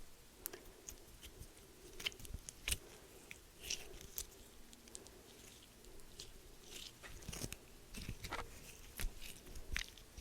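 Close-miked crunching and chewing of a crisp snack: irregular crackles and sharp clicks, a few louder bites scattered through.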